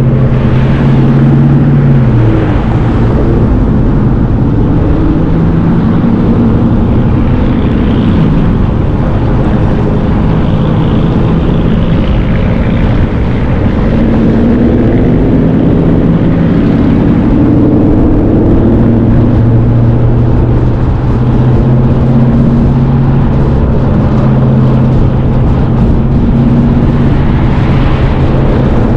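Car engine running loud and steady, its pitch dropping about two seconds in and shifting slowly a few more times.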